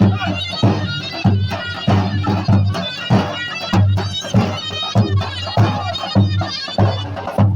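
Folk dance music: a shrill reed pipe playing a wavering melody over a steady bass drum beat, roughly two strokes a second.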